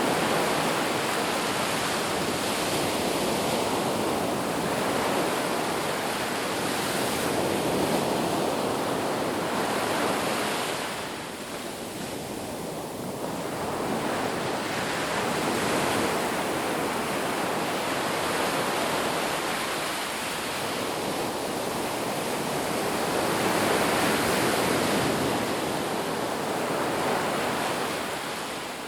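Ocean surf breaking on a beach: a continuous wash of noise that swells and eases over several seconds, with a softer lull about halfway through.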